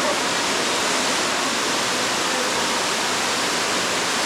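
Waterfall inside a cave: a steady, unbroken rush of falling water.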